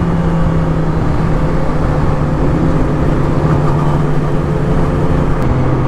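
Sport motorcycle engine running at a steady cruise, its note dropping slightly near the end.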